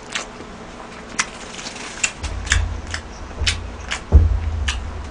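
A person eating close to the microphone: wet mouth clicks and smacks from chewing about once a second. A low rumble comes in about two seconds in, with a thud a little after four seconds.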